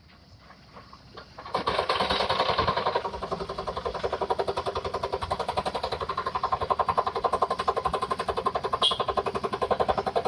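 Kobelco SK200 excavator making a rapid, even mechanical clatter of about eight beats a second. It starts suddenly about a second and a half in.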